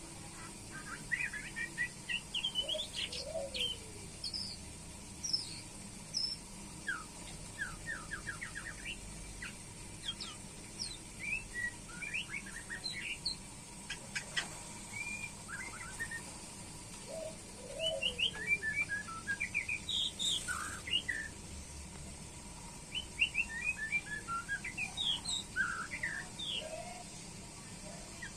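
White-rumped shama (murai batu) singing: varied short phrases of quick whistles, chirps and trills, coming in bursts with brief pauses between them.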